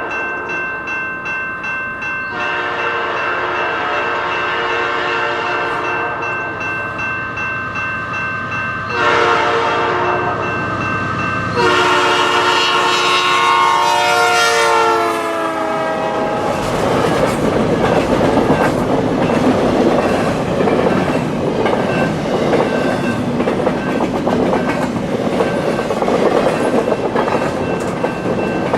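Level-crossing bells ringing as a CPKC train led by locomotives CP 8203 and KCS 4778 approaches, sounding its horn about 9 and 12 seconds in. The horn's pitch drops as the locomotives pass the crossing, then the cars roll by with a rumbling clatter of wheels over the rails while the bells keep ringing.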